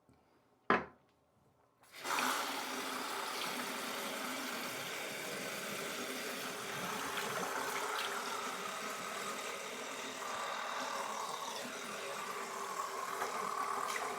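A single click, then, from about two seconds in, water running steadily from a tap into a sink.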